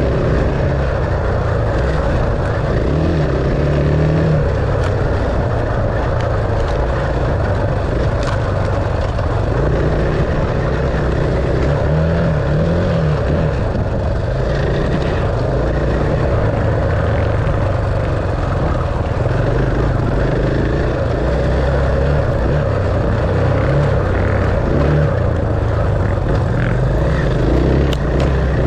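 Enduro dirt bike engine running steadily under riding, its pitch rising and falling a little with the throttle, over a constant rushing noise.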